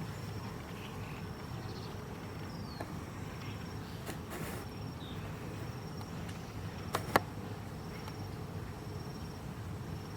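Insects trilling, a faint, high, steady tone that comes and goes over a low outdoor rumble, with two sharp clicks close together about seven seconds in.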